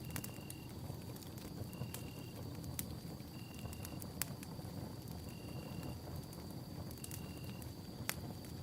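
Wood campfire burning: a low steady rumble of flames with scattered sharp crackles and pops. A short high-pitched note repeats about every second and a half, over a faint steady high whine.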